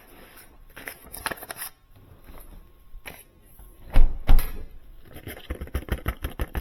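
Sub-Zero refrigerator door shut against its gasket with a double thump about four seconds in. Light clicks and rustling come before it, and a quick run of softer knocks follows near the end, as the door seal is checked with a dollar bill.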